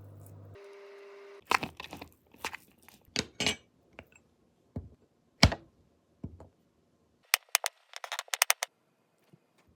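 Food-preparation sounds in a kitchen: a short steady hum at first, then scattered sharp knocks and clinks of utensils and food, and a quick run of taps near the end.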